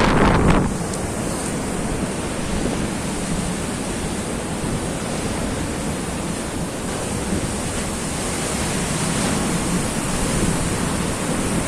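Rough sea surf breaking and washing steadily, with wind buffeting the microphone; loudest in the first moment, then an even rush.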